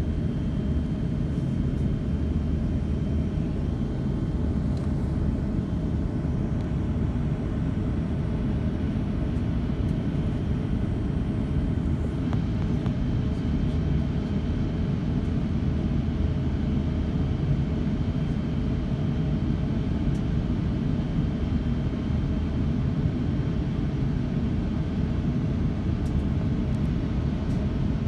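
Steady low rumble inside the cabin of an Airbus A350-900 airliner on the ground, around pushback and engine start, with a faint thin steady whine above it.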